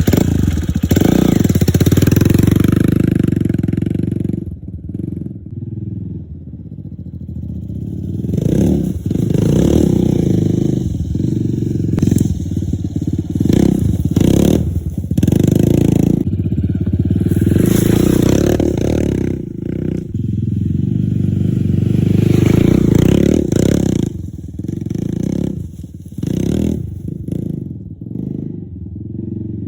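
Honda XR150L's single-cylinder four-stroke engine running under load while riding a rough trail, the throttle opening and closing so the sound swells and drops repeatedly, with scattered knocks and clatter from the bike over the terrain.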